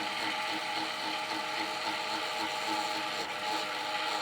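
Johnson Model D fare box's battery-powered electric motor running through its cycle after the lever is pulled: a steady mechanical whir with a rapid, regular ticking from the gear mechanism.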